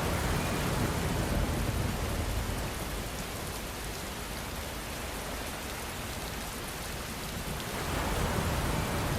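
Steady rainfall, an even hiss. A low rumbling swell rises in the first couple of seconds and again near the end.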